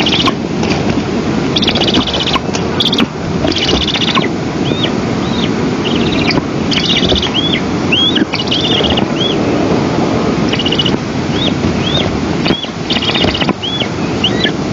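Strong wind noise on the microphone, with short high chirping bird calls repeating every half second to a second, mixed with brief buzzy trills.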